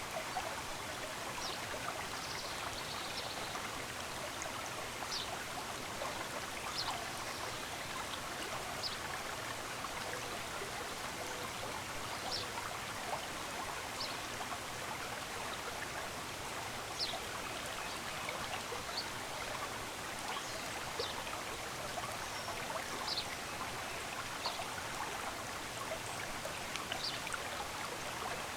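Stream running steadily, with short high bird chirps every second or two over the flowing water.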